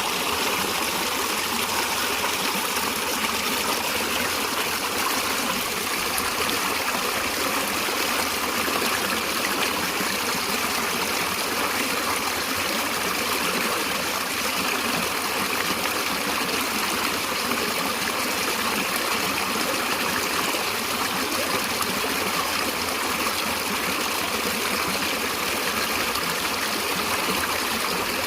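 A stream of water flowing steadily, a constant rushing and trickling with no breaks.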